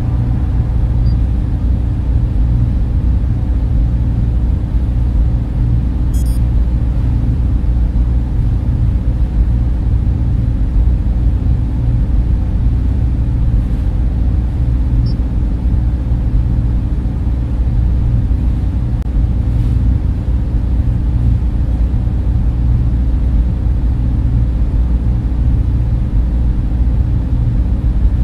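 Server room: many cooling fans running together in a steady, unchanging low hum and rush, with most of the sound low in pitch.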